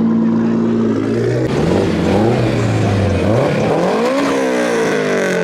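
Car engine revving: a steady drone, then the pitch climbs twice, peaking about four seconds in, and falls away near the end.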